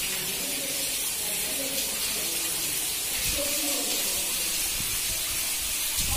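Steady rain falling on stone paving and puddles: an even, unbroken hiss, with faint voices underneath.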